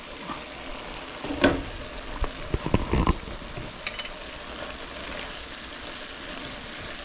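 Chopped squash cooking in its own water in a pot, sizzling steadily, with a spoon knocking against the pot several times about one and a half to three seconds in as it is stirred.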